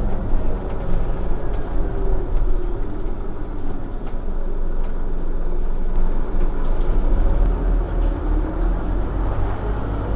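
Scania OmniCity single-deck bus heard from on board: a steady deep engine rumble with road noise, the engine note rising and falling as the bus drives along.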